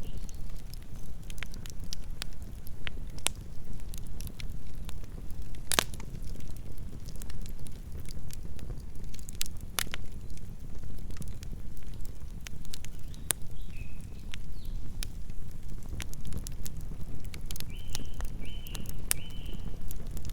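Campfire burning: wood crackling, with sharp pops scattered throughout and two louder pops, over a steady low rumble of the flames. A few short high chirps are heard near the end.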